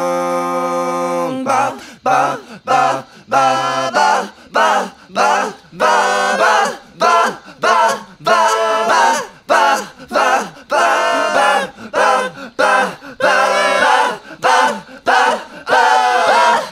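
Music: a cappella group vocals, a held chord that breaks off about a second in into short, choppy chanted syllables with brief gaps between them, in a steady rhythm.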